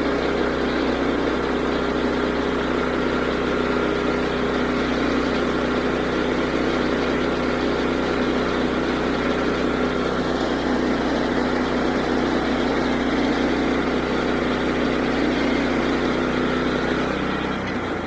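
Woodland Mills HM122 band sawmill's 9.5 hp gas engine running steadily under load while its band blade cuts through a walnut log. A little before the end the steady engine tone drops away and the sound eases off slightly, as the pass ends.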